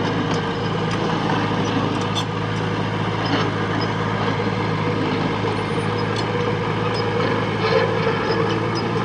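Diesel engine of a heavy work machine running steadily under a constant load, with a few scattered light clicks and clanks.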